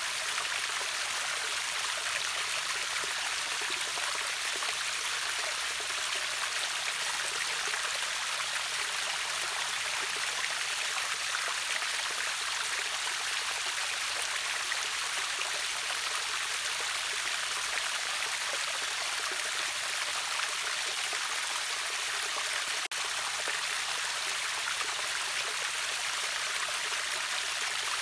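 Rushing water of a river waterfall: a steady, even hiss of flowing water, mostly in the higher range, broken by a split-second dropout a little over three-quarters of the way through.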